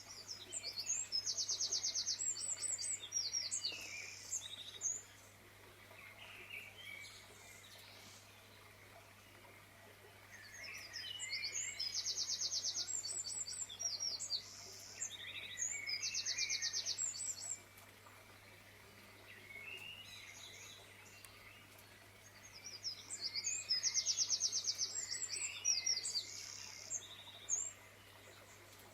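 A songbird singing in three long phrases of fast, high trills and chirps, with pauses of several seconds between them. A faint steady low hum lies underneath.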